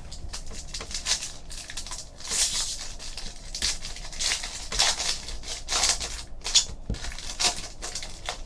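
Trading card packs being torn open and handled: irregular crinkling and rustling of foil wrappers, with cards being slid and shuffled.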